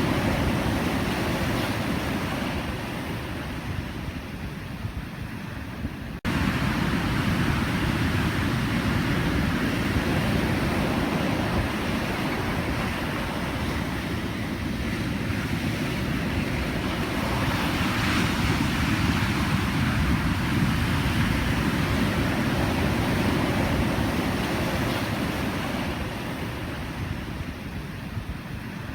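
Ocean surf breaking and washing in steadily, a dense wash of noise that swells and eases. About six seconds in it jumps back up abruptly, as at an edit cut.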